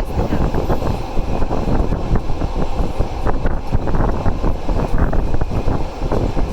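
Passenger train running, heard from on board: a steady rumble of the coaches on the rails with wind buffeting the microphone.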